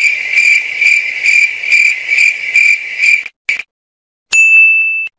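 Cricket-chirp comedy sound effect: a loud pulsing high trill, about two to three pulses a second, that cuts off abruptly after about three seconds. About four seconds in, a short steady high tone sounds for under a second.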